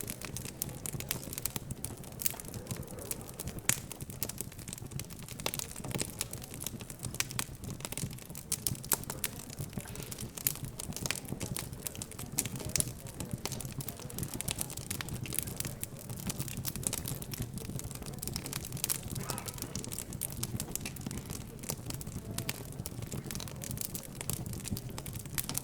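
Wood fire crackling in a fireplace, with many irregular pops and snaps throughout, over a low murmur of background chatter.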